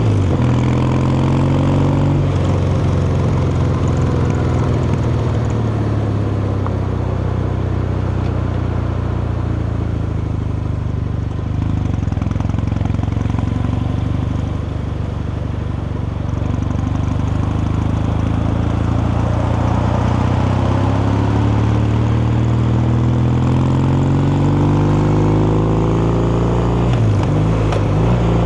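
Kawasaki Meguro K3's air-cooled vertical-twin engine and exhaust under way. The pitch drops about two seconds in, holds steady for a long stretch, then climbs steadily as the bike accelerates, with a brief dip and renewed climb near the end, as at an upshift.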